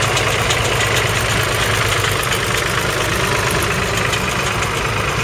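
Vintage tractor engine running steadily at low revs, with an even rhythmic beat.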